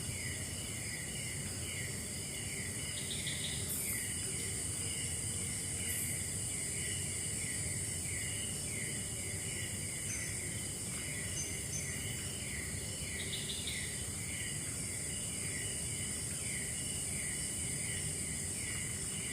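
Insect chorus: a steady high drone with short chirps repeating about twice a second, and a few brief trills now and then.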